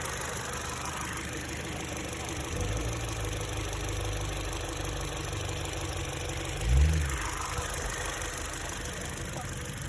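2020 Toyota Corolla's four-cylinder engine idling steadily under the open hood. A deeper low hum joins about two and a half seconds in, and there is one brief louder swell near the seven-second mark.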